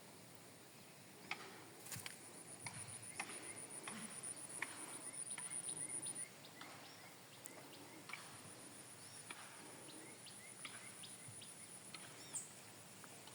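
A high, pulsing insect trill that breaks off about six seconds in and starts again a couple of seconds later, with scattered short chirps and a few light clicks.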